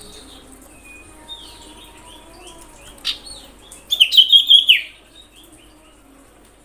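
Common iora (cipoh) calling: faint repeated chirps, then a sharp chirp about three seconds in. About a second later comes a loud, rapid run of high notes that ends in a falling note.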